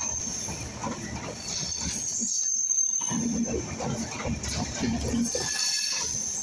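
Bangladesh Railway intercity passenger coaches rolling past at close range: a steady rumble of wheels on rail with irregular knocks over the joints, and a thin high wheel squeal on the curve that comes and goes, strongest about two seconds in.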